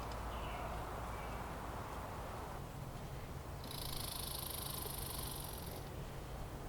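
Steady low rumble of outdoor ambience. A high, even hiss comes in about three and a half seconds in and stops about two seconds later.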